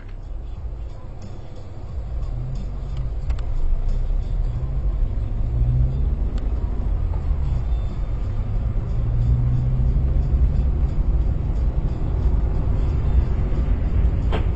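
Car engine and road rumble, low and steady, with the engine note rising and falling a few times.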